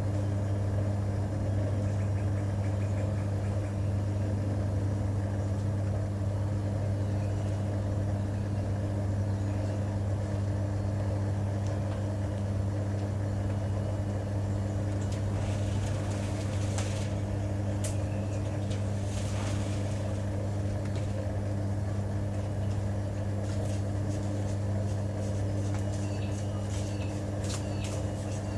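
LG TurboDrum WT-R852 top-loading washing machine running mid-cycle with a steady low hum, with a few brief hissy patches about halfway through and again near the end.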